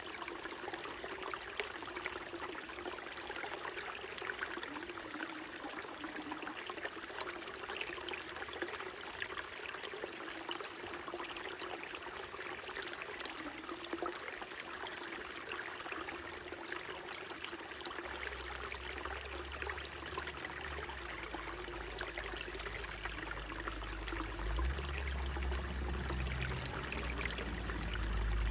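Small mountain stream flowing steadily. A low rumble comes in about two-thirds of the way through and grows louder near the end.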